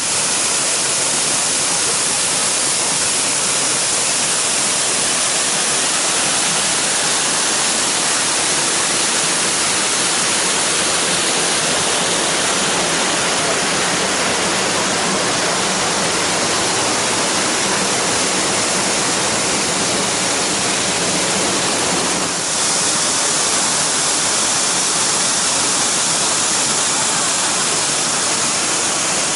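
Loud, steady rush of falling water close by, a waterfall or cascade, with a brief dip in level about 22 seconds in.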